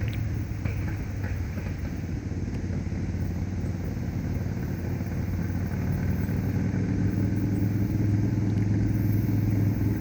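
Motorcycle engine running steadily as a low rumble, growing louder toward the end as it comes closer.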